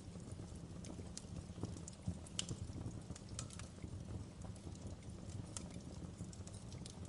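Wood fire crackling in a fireplace: irregular sharp pops and snaps of burning logs over a steady low rumble of flames.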